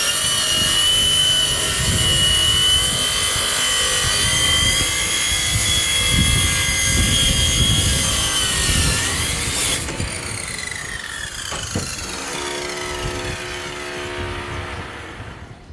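A power tool's motor running at speed with a high whine, cutting as a power saw does. About ten seconds in it shuts off and spins down, falling in pitch, and a lower hum fades out near the end.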